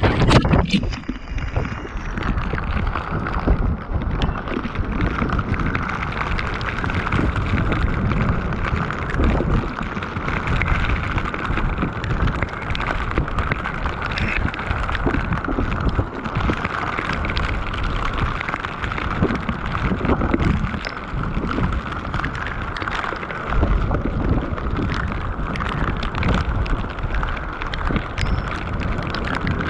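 Heavy rain falling steadily, with many separate drops ticking close to the microphone over a low rumble. A brief, louder crackle comes right at the start.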